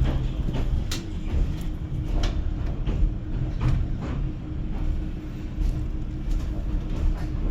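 Interior of a Manchester Metrolink tram running: a steady low rumble with a faint constant hum, broken by irregular sharp clicks and knocks.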